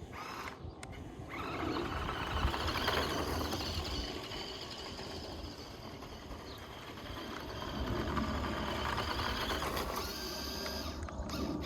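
Electric motor and gearbox of a 1:14-scale Audi RS Q e-tron RC car whining as it drives over dirt, swelling and easing with the throttle. The motor cuts out briefly near the start and again near the end.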